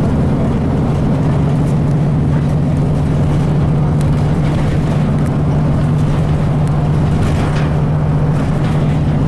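2002 Blue Bird transit bus under way, heard from inside: the Cummins ISC diesel running at a steady drone with a strong low hum, plus faint rattles.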